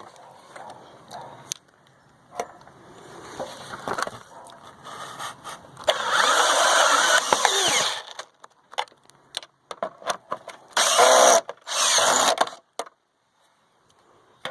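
Power drill driving screws through gutter hangers into the fascia board: one long run about six seconds in that slows as the screw seats, then two short runs near the end to snug the screws tight. Clicks and scraping of handling the hanger and drill come before.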